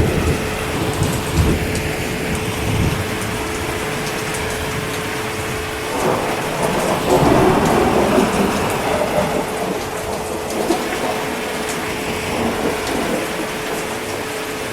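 Steady heavy rain, with a roll of thunder that swells about six seconds in and fades over the next few seconds. A faint steady hum sits under the rain.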